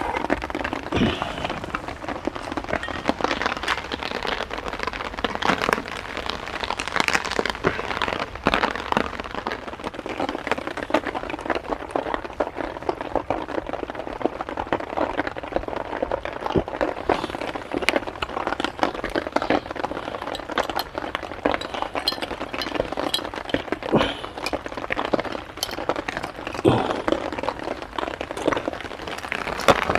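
Heavy rain falling, a dense, irregular patter of drops with sharper hits now and then.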